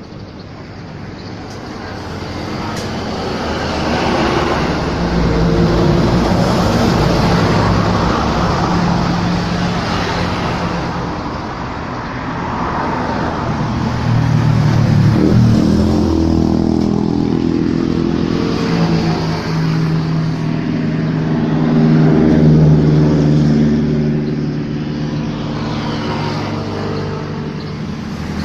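Small motorcycle engine running, its pitch rising and falling as it is revved, with a quick rise about halfway through.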